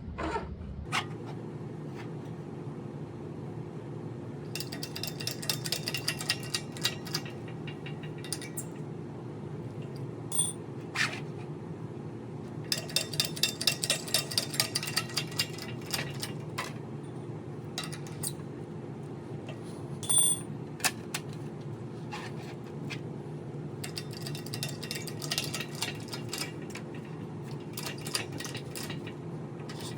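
Metal clinking and ticking from pressing a steel panel in a 3D-printed mold, coming in three long runs of rapid clicks with single clinks between, over a steady low hum.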